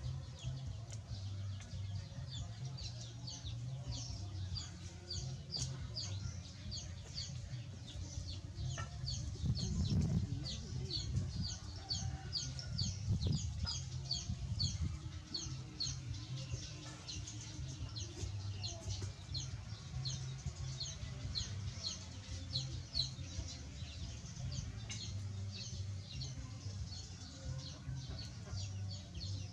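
Birds chirping: many short high chirps, several a second, over a steady low hum, with a couple of louder rustles or knocks around the middle.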